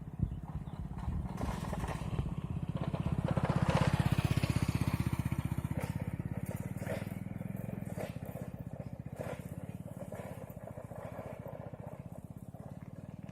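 Engine of a passing motor vehicle, growing louder to about four seconds in and then slowly fading away.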